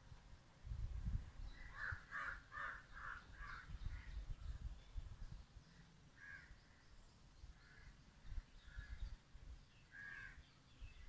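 Bird calls: a quick run of about five calls about two seconds in, then single calls spaced a second or more apart, over an intermittent low rumble.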